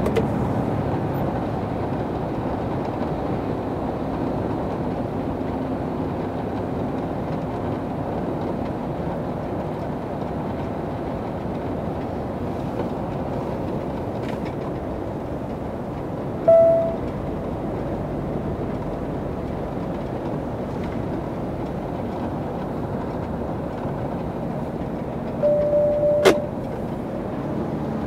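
Steady engine and road drone inside a moving truck's cab. A short tone sounds about halfway through, and a longer tone comes near the end, closed by a sharp click.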